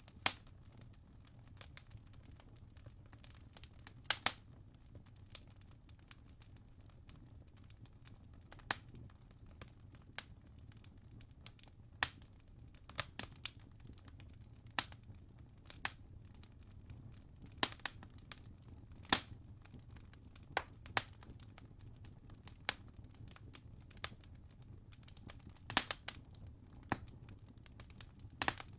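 Wood fire crackling in a fireplace: scattered sharp pops and snaps every second or two, some in quick pairs, over a low steady hum.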